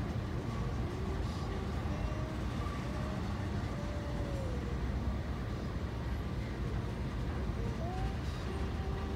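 Freight train rolling slowly past a grade crossing: a steady low rumble with a few faint short squeals over it.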